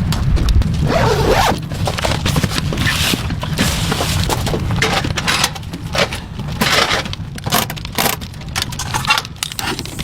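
Irregular scraping, rustling and clinking of gear being handled, over a steady low rumble.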